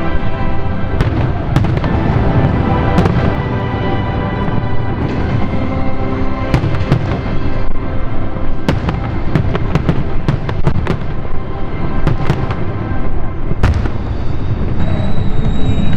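A fireworks display going off, with repeated sharp cracks and low booms over music played for the show. A high steady whistle-like tone starts near the end.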